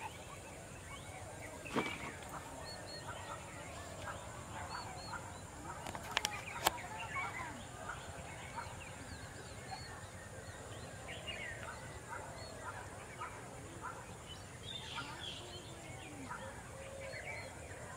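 Birds calling: many short scattered chirps and calls over a steady background, with a few sharp clicks, one about two seconds in and a pair around six to seven seconds.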